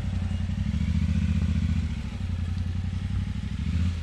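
Yamaha Ténéré 700 parallel-twin motorcycle engine running at low revs, a steady low pulsing note that rises slightly in level near the end.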